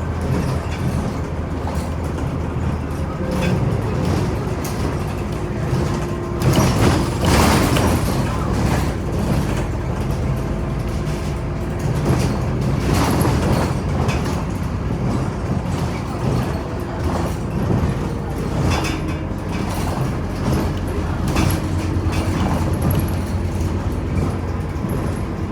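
Scania Omnicity city bus heard from inside while under way: a steady low engine and driveline rumble with cabin rattle, and two louder jolts of rattling about seven and thirteen seconds in.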